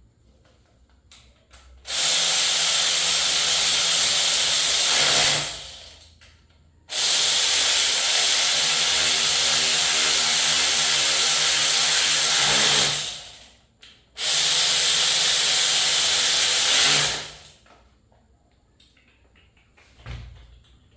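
Power tool running with a loud hiss and a steady hum, in three long bursts of about four to six seconds, each winding down over about a second.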